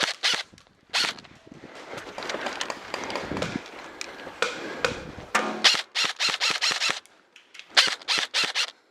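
Airsoft guns firing: a few single shots, then a quick string of about eight shots in about a second and a half, and another short string near the end.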